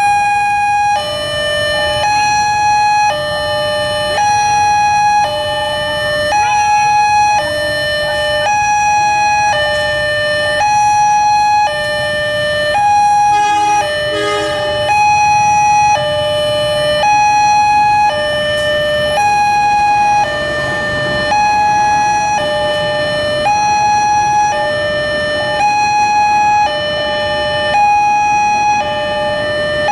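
Railway level-crossing warning alarm sounding continuously: a two-tone electronic signal, higher and lower tones alternating about once a second, warning that a train is approaching and the gates are down. Low road traffic rumble underneath.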